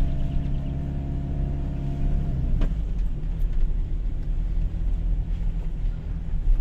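Toyota HiLux engine running as the ute is driven over a rough, bumpy bush track, heard from inside the cab with a heavy rumble and body rattles. About two and a half seconds in, the engine note drops and there is a single sharp knock.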